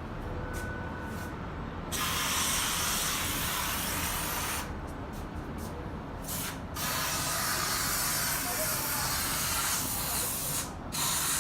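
Hissing spray in long bursts of a few seconds each, with short breaks between them.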